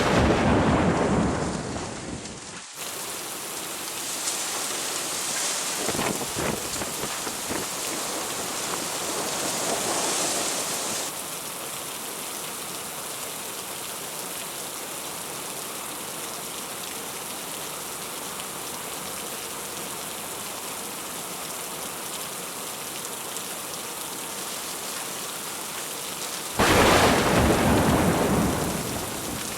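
Thunderstorm: heavy rain falls steadily throughout. A loud thunderclap at the start fades over a couple of seconds and cuts off abruptly. Rolling thunder swells and dies away in the middle, and another sudden loud crack of thunder comes near the end and fades.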